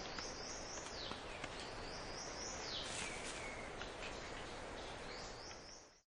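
Forest ambience: a bird sings three phrases of quick, high rising notes, each phrase ending in a longer falling note, over a steady background hiss. It fades out near the end.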